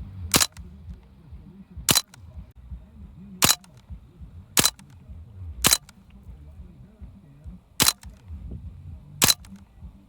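CO2-powered Umarex Strike Force BB gun firing a rapid string of seven sharp shots, about one to two seconds apart, at a computer mouse target.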